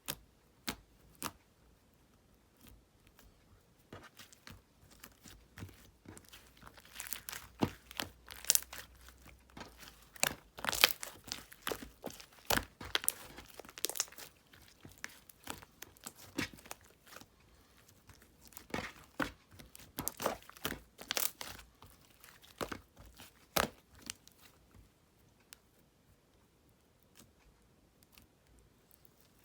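Slime being squeezed and pulled by hand, giving irregular crackles, crinkles and sharp pops that come thickest through the middle and thin out near the end.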